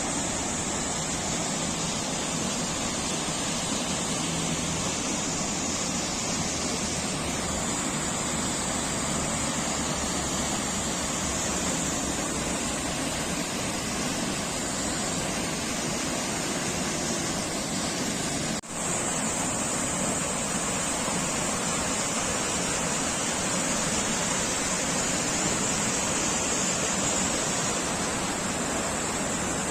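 Steady rush of falling water, loud and even, breaking off for an instant about two-thirds of the way through.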